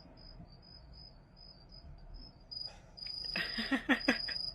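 High chirping in quick pulses, like insects, runs steadily throughout. About three seconds in comes a quick run of short, rising, squeaky pitched sounds, the loudest part.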